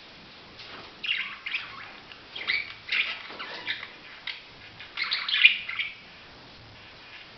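Budgerigar chirping in a string of short, rapid bursts, starting about a second in and stopping about six seconds in.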